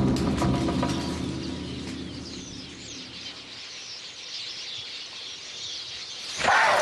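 Background music fades out over the first couple of seconds, leaving birds chirping in the open bush. About six seconds in, a loud, low, wavering animal call suddenly breaks in.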